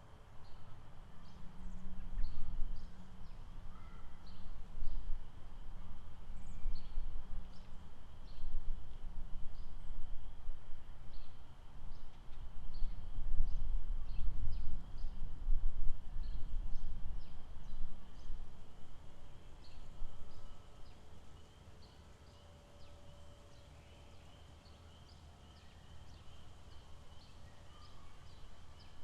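Outdoor lakeside ambience: a steady high-pitched chorus of small calling animals, with many short, scattered chirps over it. Under this runs a low, uneven rumble with a hum, which fades out about 18 seconds in.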